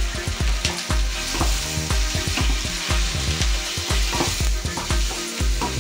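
Pieces of suckling lamb sizzling in olive oil with onion and green pepper in a stainless-steel pot, stirred with a wooden spoon that knocks and scrapes against the pot again and again.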